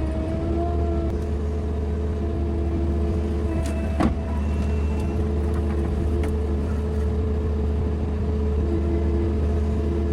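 Engine running steadily with a deep, even hum. A single sharp knock about four seconds in.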